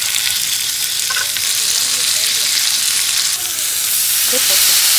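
Abalone sizzling in a hot griddle pan. The sizzle grows louder about four seconds in, as enoki mushrooms are laid onto the pan.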